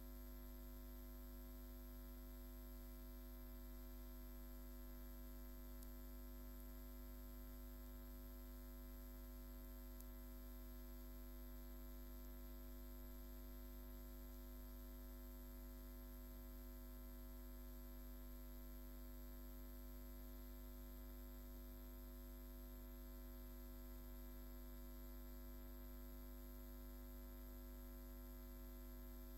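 Steady electrical mains hum: a low, unchanging drone with several fixed tones above it over faint hiss, and nothing else.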